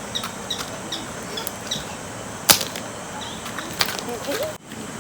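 Steady rush of water with short high bird chirps in the first two seconds, then a single loud sharp crack about halfway through and a smaller click near the end.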